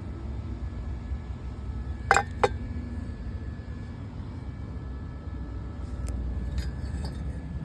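Metal tools clinking against each other: two sharp clinks about two seconds in, then a few fainter clicks near the end, over a steady low rumble.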